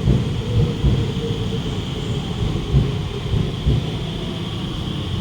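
Alstom Movia R151 train carriage interior: a continuous low rumble with irregular low thumps under a steady hiss, with a faint tone that fades away in the first second or two.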